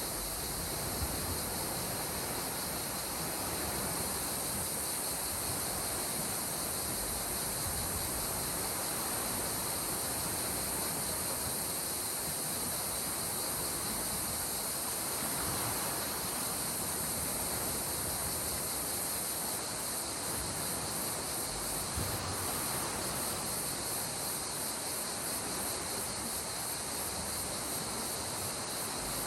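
Steady, unbroken chorus of insects, high-pitched, over a soft wash of gentle sea waves on the shore.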